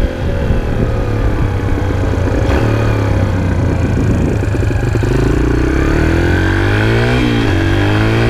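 Four-stroke dirt bike engine running, then revving up and down repeatedly in the second half.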